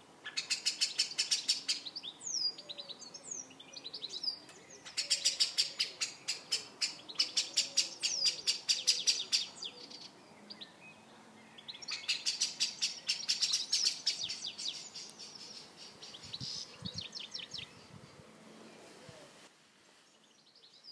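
Birds singing: long runs of fast, high chirps, with short pauses between the runs and a fainter stretch near the end.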